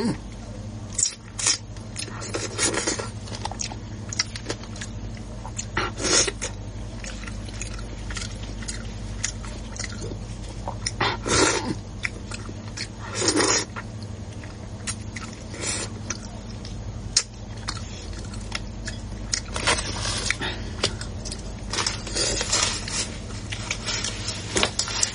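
A person eating close to the microphone, with irregular chewing, smacking and slurping noises over a steady low hum.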